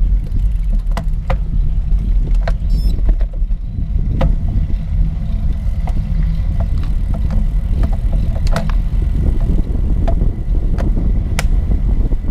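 Wind buffeting the microphone and a steady low rumble from riding a bicycle, with scattered sharp clicks and rattles from the bike.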